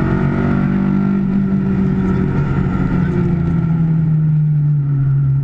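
Car engine heard from inside the cabin while lapping a race track, running steadily with its pitch slowly falling as the car slows for a corner.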